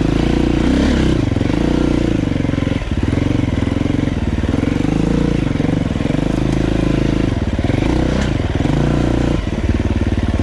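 Dirt bike engine running under way, its pitch rising and falling with the throttle, with brief drops about three seconds in and near the end that sound like the rider rolling off or shifting.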